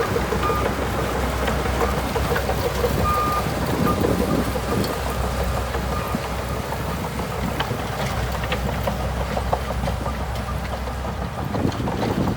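Heavy diesel engine of a bulldozer running steadily, with scattered clicks and clanks.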